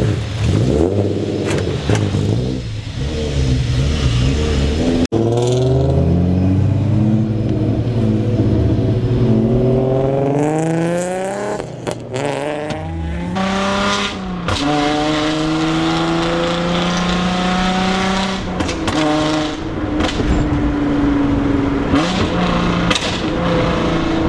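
Car engine under way, revving up and dropping back in steps like gear changes, then running more steadily. There is a sudden break in the sound about five seconds in.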